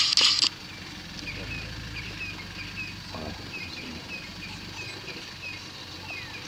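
A bird giving short chirps over and over, about two or three a second, over a low steady rumble. A loud burst of rapid clicking and hiss cuts off about half a second in.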